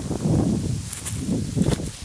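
Wind buffeting the microphone with a low rumble that eases off, with a few short rustling crackles about a second in and near the end.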